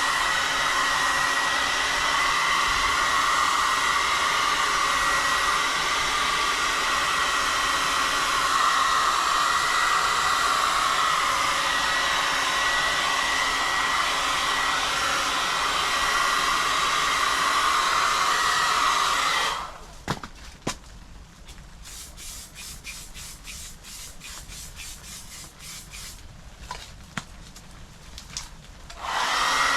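An electric heat gun blowing hot air steadily to flash off freshly applied plastic primer on a bumper. It cuts off about 20 seconds in, leaving faint rapid ticking, and starts up again right at the end.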